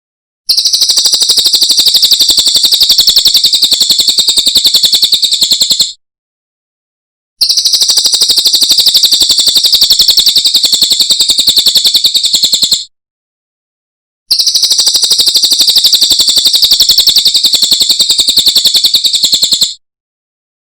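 Song of a cililin bird: three long, loud, rapid even trills of about five seconds each, pitched high, with short silent gaps between them.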